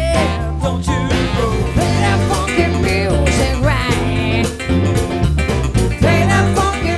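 Live band playing: a steady beat and strong bass line under a lead melody that bends in pitch.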